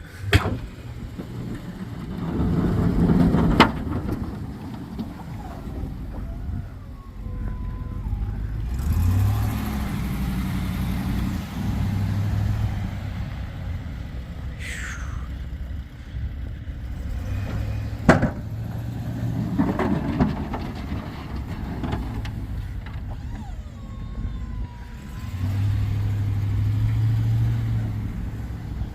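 Snow-plow truck engine running and changing revs while pushing snow, its pitch climbing and dropping several times, with three sharp clunks along the way.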